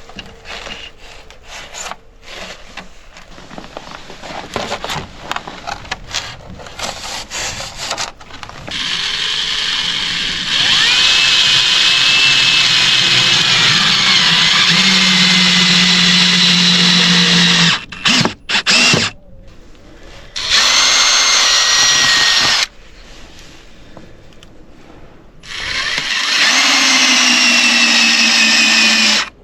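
Power drill running in three long bursts, its whine shifting in pitch during the runs, with quieter gaps between them. Before the first burst there are scattered knocks and handling clicks.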